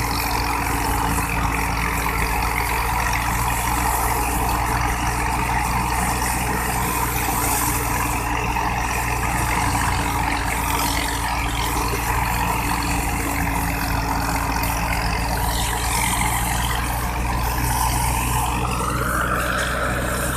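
Wheat thresher driven by a tractor engine, running steadily with a continuous engine drone under the rush of the threshing machinery. A tone rises briefly near the end.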